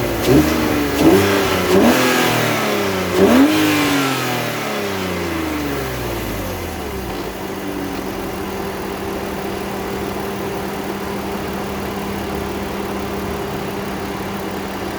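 BMW Z4 3.0i's M54B30 3.0-litre straight-six, breathing through a K&N panel air filter, blipped four times in quick succession in the first few seconds. The revs then drop back and settle into a steady idle for the rest.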